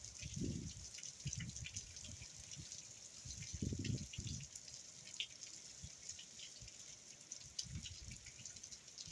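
Hurricane rain falling steadily, with drops dripping and pattering close by, and short gusts of wind buffeting the microphone every second or two.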